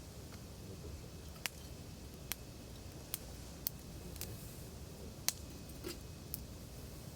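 Wood campfire burning with a low, steady rumble, broken by sharp, irregular crackles and pops from the burning firewood, about one a second.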